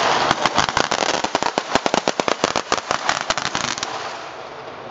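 Feu de joie: a running ripple of rifle blanks fired in rapid succession down the ranks, many shots overlapping, thinning out about four seconds in and dying away into echo.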